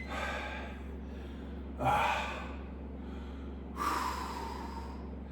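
A man breathing hard during weighted cable rope crunches, with three sharp breaths about two seconds apart, one per rep, over a steady low hum.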